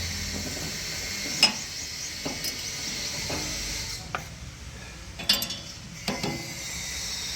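A string of sharp metallic clanks and knocks from machinery at work, loudest about a second and a half in and again past five seconds, over a low engine hum that drops away around the middle.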